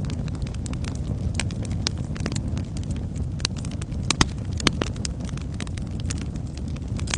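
Wood fire in a fireplace crackling: sharp, irregular pops and snaps over a steady low rumble of the flames, with a couple of louder pops a little past the middle.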